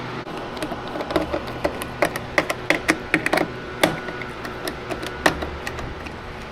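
Irregular clicks and taps of metal hardware and tools being handled during the install of a garage door opener, over a steady low hum. The clicks come in an uneven run from about a second in until a little after five seconds.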